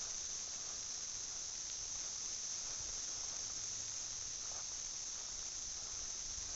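Chorus of 17-year periodical cicadas making a steady, high-pitched buzz.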